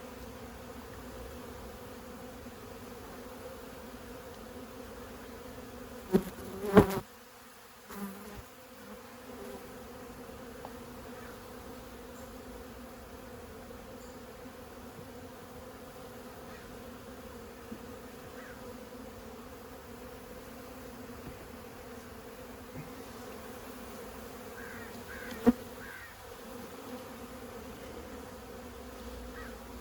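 A mass of honey bees from a feral colony buzzing in a steady, even hum, the defensive drone of a disturbed hive during its removal. Two sharp knocks about six to seven seconds in and another later cut across it.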